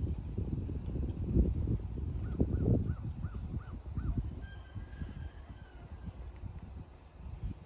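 A bird calling in a quick run of six short rising-and-falling notes, about three a second, followed by a fainter thin whistle. Under it runs a louder low rumbling and thumping noise, strongest in the first three seconds.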